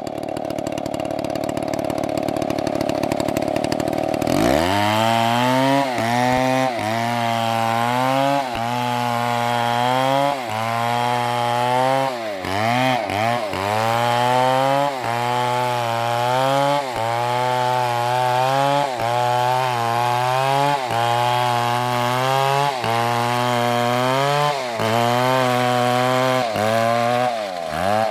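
Large two-stroke chainsaw (MS720) cutting into a big tree. It runs at full revs, then about four seconds in the chain bites and the engine pulls down, its pitch dipping and recovering over and over under the load of the cut.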